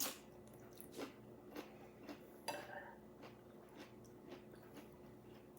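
A person biting and chewing crunchy food close to the microphone: soft crunches about every half second, loudest in the first half.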